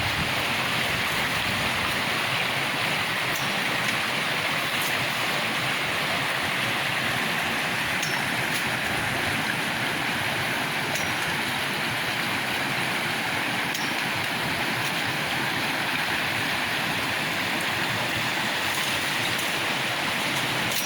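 River water rushing steadily over rocks, with a few faint short high ticks scattered through.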